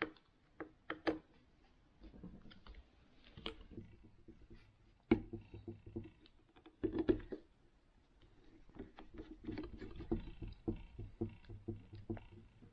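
Irregular clicks and knocks of small plastic parts and screws being handled and fitted while reassembling a steering-wheel cruise control switch, with two louder knocks around the middle and a run of quick small clicks near the end.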